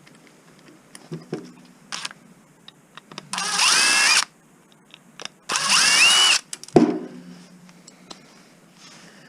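Power drill running in two bursts of about a second each, its motor pitch rising as it spins up, as it works screws out of scrap electronics. Small clicks of parts come before the bursts, and a sharp knock follows the second.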